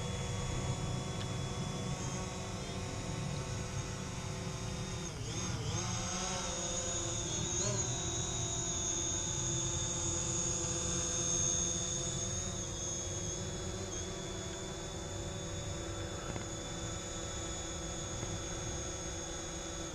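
Quadcopter camera drone's propellers whining steadily as it hovers close by and comes down to land, with brief dips in pitch about five and eight seconds in.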